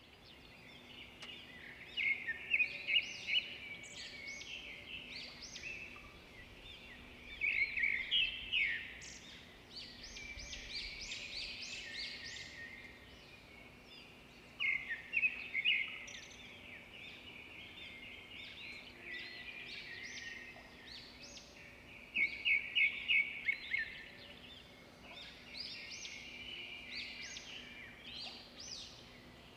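Birds chirping and trilling in repeated bursts of quick high notes, over a faint steady hum.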